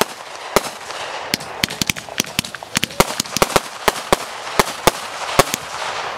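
Aerial fireworks going off: a quick, irregular string of sharp bangs and pops over a crackling hiss as shells burst overhead.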